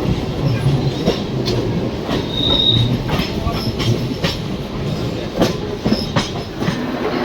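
Passenger train running along the track: a steady rumble with sharp clacks and knocks from the wheels at uneven spacing, and a brief high wheel squeal about two and a half seconds in.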